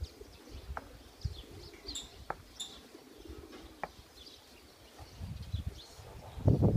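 Small birds chirping intermittently in the background, with a couple of faint clicks about two seconds in. Low muffled sounds build up near the end.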